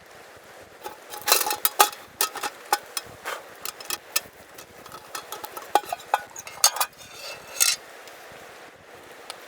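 Metal cookware and utensils clinking and scraping against each other in a quick run of short knocks, some with a brief ring.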